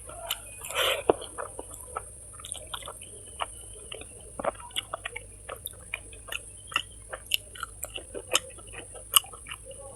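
A person chewing food close to the microphone, with many short irregular mouth clicks and smacks and a louder bite about a second in, over a steady high hiss.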